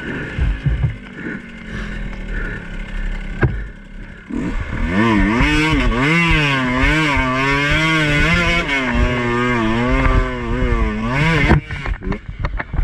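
Two-stroke dirt bike engine being worked on a trail: low and choppy at first, then from about four seconds in held at high revs that rise and fall again and again, before dropping off sharply near the end.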